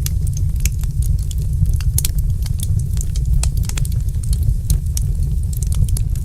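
Wood fire in a fireplace crackling, with frequent sharp pops and snaps at irregular intervals over a steady low rumble.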